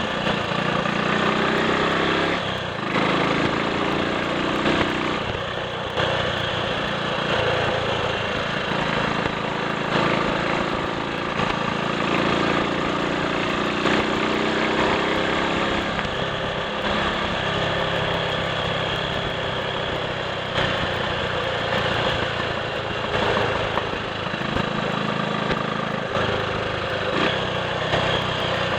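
Triumph Sports Cub's single-cylinder four-stroke engine running on the road, its revs rising and falling several times with short dips in between.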